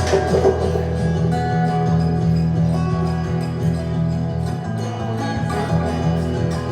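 Instrumental music with guitar, with no singing.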